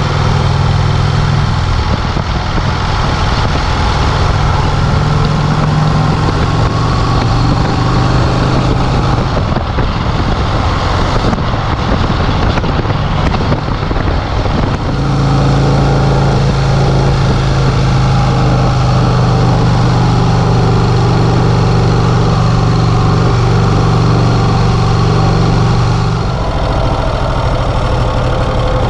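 1951 Vincent Rapide's V-twin engine running on the road under way. The steady engine note breaks up about ten seconds in, then comes back stronger and steadier about fifteen seconds in.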